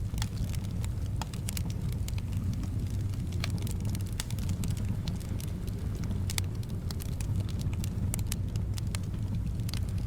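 Wood fire crackling in a fireplace, with many sharp pops and snaps scattered over a steady low rumble of soft wind.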